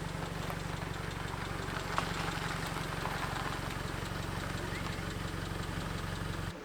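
Daihatsu Copen kei car's engine idling steadily, then switched off about six and a half seconds in.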